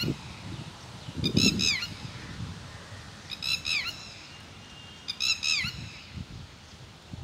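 A bird calling again and again outdoors: a short, harsh, high call of a few quick notes that drop in pitch at the end, about every two seconds. A low rumble comes under some of the calls.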